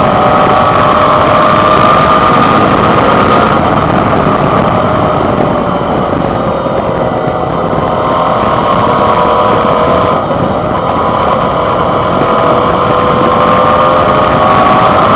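Suzuki DL650 V-Strom's 645 cc V-twin engine running under way, heard from the handlebar. Its pitch slowly falls over the first half, dips briefly about ten seconds in, then climbs again, over a steady rush of wind and road noise.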